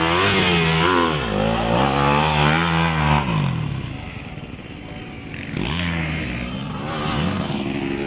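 Dirt-bike engines revving hard at close range, the pitch rising and falling with the throttle for about three seconds. The sound then drops away to fainter engine noise from farther off, with another brief rev a couple of seconds later.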